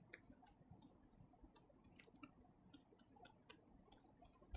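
Near silence with faint, scattered clicks at irregular intervals.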